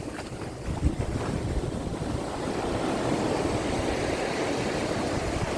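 Gulf surf washing onto the beach, a steady rush that swells a little about two seconds in, with wind buffeting the microphone.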